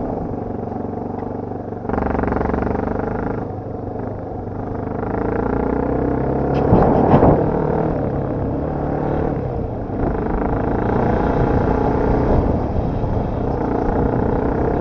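Dirt bike engine running under changing throttle, its note rising and falling, with a couple of sharp knocks about seven seconds in.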